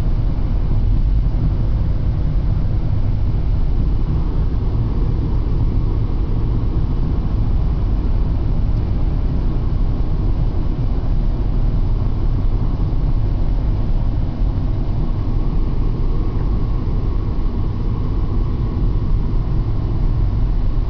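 A car driving at a steady speed: a steady low rumble of engine and road noise.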